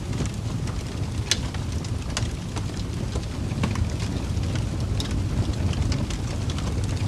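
Wood fire burning in a fireplace: a steady low rumble of flames with frequent irregular sharp crackles and pops, a louder pop about a second in.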